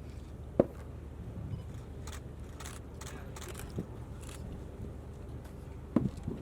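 Steady low hum from a sound system during a pause, with a sharp knock about half a second in and a short cluster of knocks near the end, like microphone handling.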